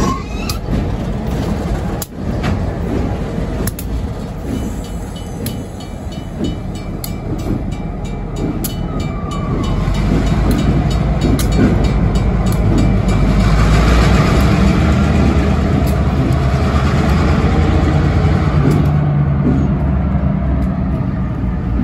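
Union Pacific diesel locomotive and freight cars rolling past at low speed: a run of wheel clicks over the rail joints, then the locomotive's diesel engine gets louder about halfway through and runs steadily before easing off near the end.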